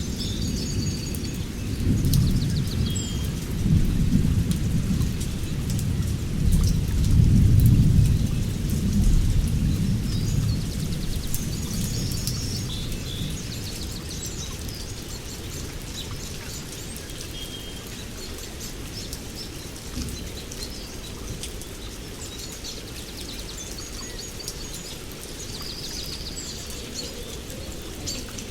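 A rainforest thunderstorm: thunder rolls heavily through the first dozen seconds, loudest around seven or eight seconds in, then fades away, over steady rain pattering on leaves. Short chirping bird calls repeat throughout.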